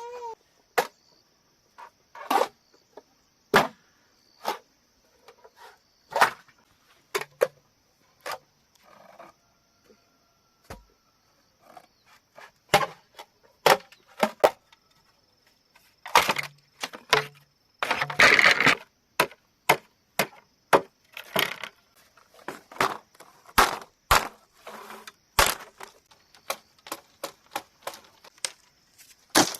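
Bamboo being chopped and struck: irregular sharp knocks, roughly one a second, with a longer splintering crackle a little past halfway. A faint steady high-pitched tone sits under the knocks for the first half.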